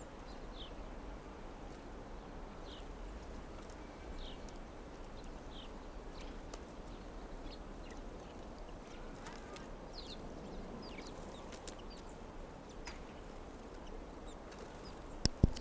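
Small birds chirping: short, high calls sliding downward, about one every second or two, over a low steady rumble. A sharp click comes just before the end.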